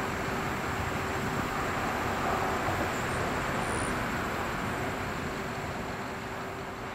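Tail end of a CSX autorack freight train rolling away on the rails: a steady rumble of wheels on track that begins to fade over the last couple of seconds as the cars pass out of earshot.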